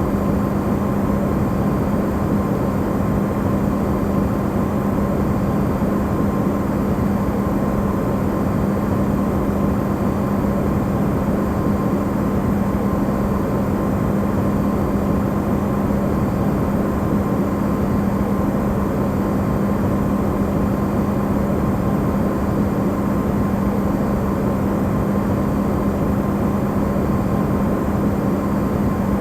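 Electrolux refrigerator running, recorded close up and amplified: a steady low rushing noise with a constant hum and a fainter higher tone over it.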